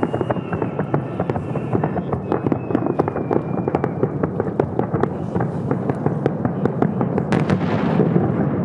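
Fireworks display: a dense, continuous crackle of many shells bursting in rapid succession. A thin whistle runs through the first half, and a bright hissing burst comes near the end.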